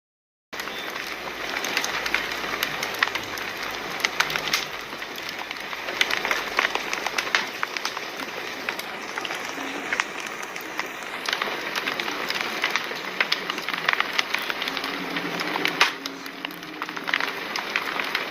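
Fire crackling, with many irregular sharp pops and snaps over a steady hiss. The sound cuts out for about half a second at the very start.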